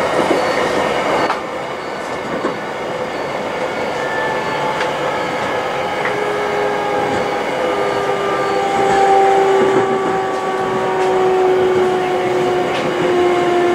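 Electric train heard from inside the carriage: wheels running on the rails, with a whine of several tones that slowly falls in pitch through the second half as the train slows.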